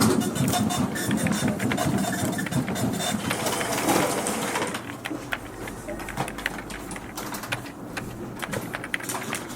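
Fax machine running, a dense mechanical whirring and clattering of its print and paper-feed mechanism that dies down about halfway through, leaving scattered sharp clicks like keyboard typing.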